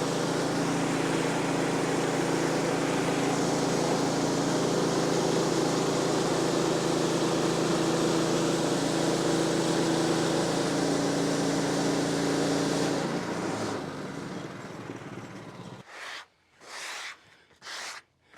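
Woodland Mills HM126 portable bandsaw mill running steadily at one engine speed, then winding down about thirteen seconds in. A few short scraping sounds follow near the end.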